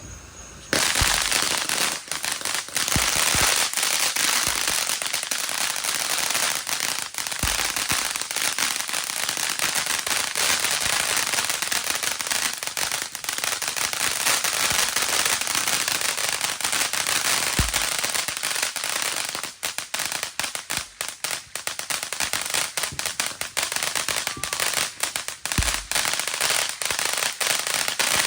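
Pyro Demon Unbelievable 500-gram firework fountain burning: a loud, continuous hiss of spraying sparks, thick with rapid crackling, that cuts in abruptly about a second in. The crackling turns denser and choppier about two-thirds of the way through.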